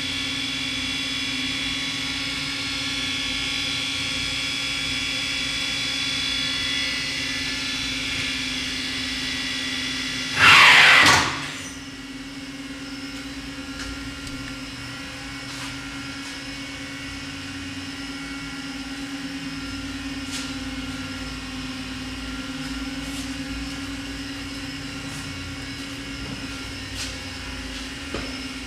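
CNC drill-tap machine (Miyano TSV-35) running: a steady high spindle whine made of several tones over a constant machine hum. About ten seconds in comes a loud burst of hiss lasting about a second, after which the whine fades, leaving the hum and occasional faint ticks.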